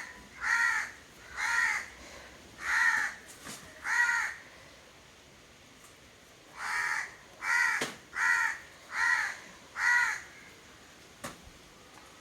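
A crow cawing: two runs of short, harsh caws, four and then five, spaced a little under a second apart, with a pause of about two seconds between the runs.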